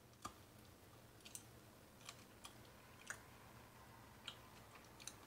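Faint chewing of a mouthful of enchilada: a scattering of small, soft mouth clicks, about nine in all, over near silence.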